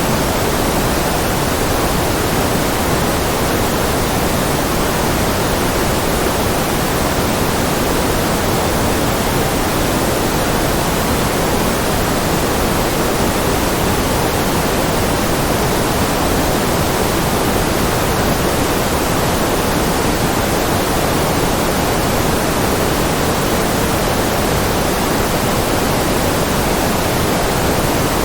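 Steady white noise: an even, unchanging hiss with no breaks or variations.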